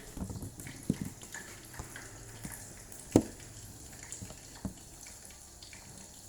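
Battered shrimp frying in hot oil, a steady sizzle. A few sharp knocks sound over it, the loudest about three seconds in.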